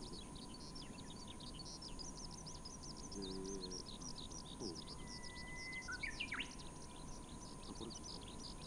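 Small birds chirping rapidly and continuously, with a held whistled note about five seconds in that breaks into a few quick rising calls just after six seconds. A faint steady tone runs underneath.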